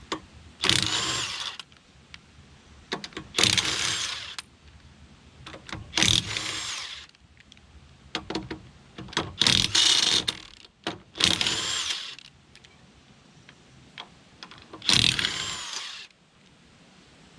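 Cordless power tool run in six short bursts of about a second each, spinning the lug nuts off a trailer wheel, its pitch rising and falling within each burst. Small clicks of handling fall between the bursts.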